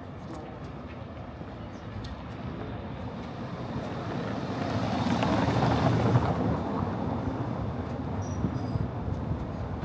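A vehicle passing by: a rushing noise that builds over a few seconds, is loudest about six seconds in, then fades away.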